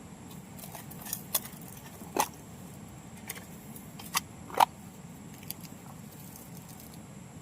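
Irregular light clicks and knocks, about seven of them spread over a few seconds, the loudest a little over halfway through.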